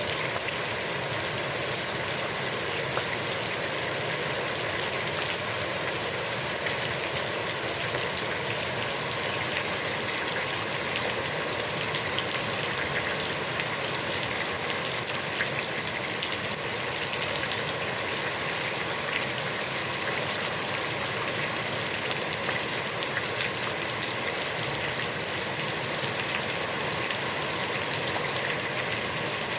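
Heavy rain falling steadily on a pond's water: a dense, even hiss dotted with countless small drop ticks.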